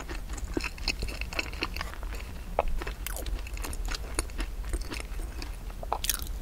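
Close-miked chewing of soft, crumbly rice cake: a steady run of small wet mouth clicks and smacks. About six seconds in comes a bite into a cream-topped piece of rice cake.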